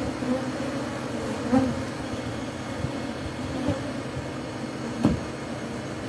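Honeybees buzzing in a steady drone around an opened colony, with single bees swelling louder as they fly close by several times. A sharp knock about five seconds in.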